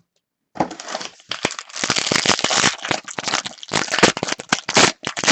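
Plastic trading-card pack wrapper crinkling and crackling as it is handled and opened. It starts about half a second in, after a brief silence.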